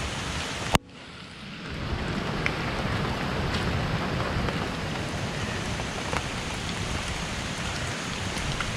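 Heavy rain falling steadily, with scattered individual drop hits. Under a second in there is one sharp click, after which the sound drops away and swells back over about a second.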